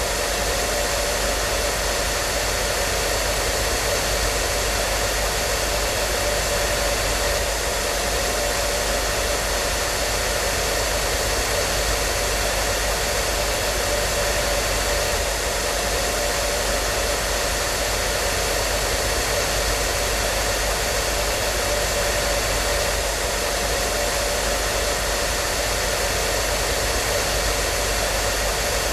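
Hair dryer running continuously: a steady blowing rush with a faint constant motor hum and whine, not changing in pitch or level.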